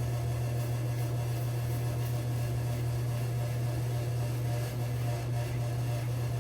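Safety razor scraping through about three days of stubble in short, faint strokes, over a steady low hum.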